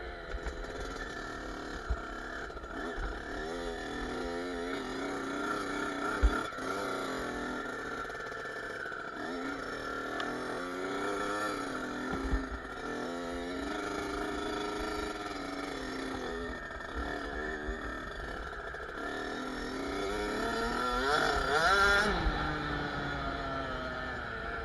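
Kawasaki KX65's small two-stroke single-cylinder engine revving up and down as the bike is ridden, its pitch climbing and dropping over and over. The highest, loudest rev comes near the end, then falls off sharply.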